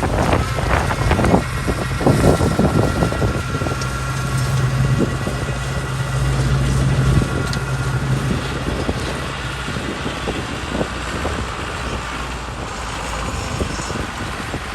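Small tractor running with a Trident flail mower: a steady engine hum over a rough noisy wash, the hum dropping away about ten seconds in.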